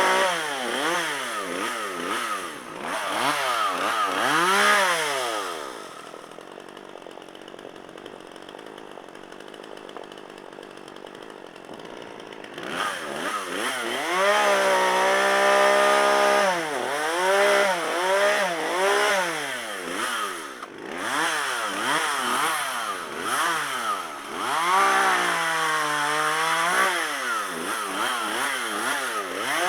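Repaired Poulan two-stroke chainsaw revving up and down over and over, the pitch sweeping high and dropping back each time. About six seconds in it drops to a much quieter stretch for several seconds, then revs up again.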